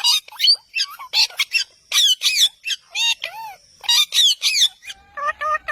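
Parrot calling in a rapid series of short, high-pitched squawks, each rising and falling in pitch. About five seconds in, a run of evenly repeated musical notes begins.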